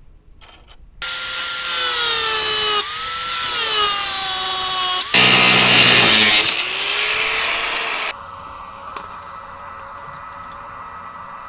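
Electric power tool running loudly from about a second in, its motor whine sagging in pitch and recovering through several loaded stretches. About eight seconds in it drops to a quieter steady whine.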